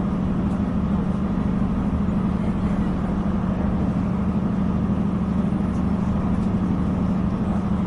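Train running steadily on the line between Bangor and Belfast: a continuous low drone with a strong hum around 200 Hz over an even rumble, unchanging throughout.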